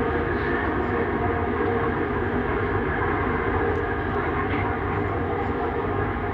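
Bombardier Innovia Metro 300 light-metro train running steadily between stations, heard from inside the car as an even rolling and drive noise.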